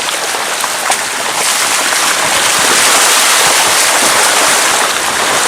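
Car driving through a shallow river ford: water hissing and splashing against the wheels and underbody, building up about a second in and staying loud and steady.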